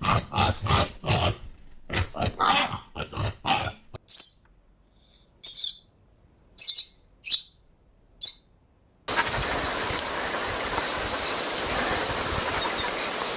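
A quick run of animal grunts, then about five short, high bird chirps spaced out over a few seconds, then a steady hiss of noise.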